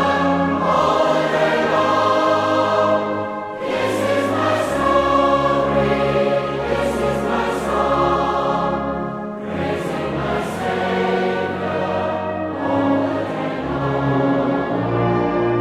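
A choir singing a slow, sustained hymn-like piece over instrumental accompaniment, with long held chords that change every few seconds.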